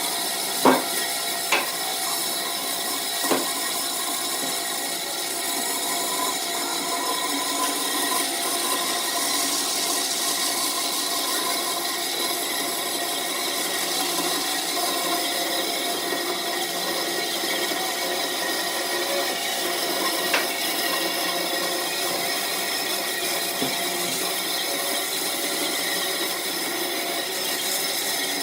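Wood lathe running while a turning tool cuts the spinning wood: a steady noise with a constant machine whine. There are three sharp knocks in the first few seconds and one more about two-thirds of the way through.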